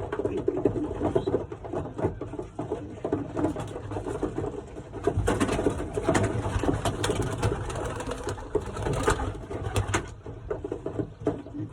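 Young racing pigeons cooing in the loft, a steady low warbling chorus, with scattered taps and rustles of birds moving about, busiest in the middle.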